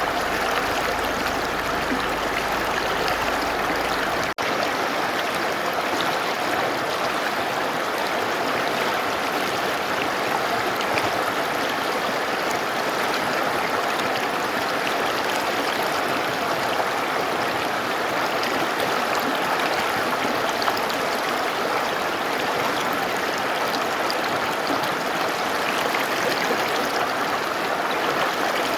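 Mountain river flowing, a steady even rush of water, with a momentary dropout about four seconds in.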